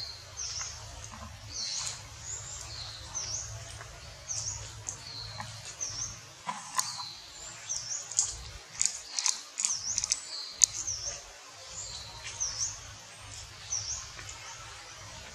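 A small bird calling over and over: short, high chirps that dip and rise in pitch, about one a second, with a few sharp clicks around the middle.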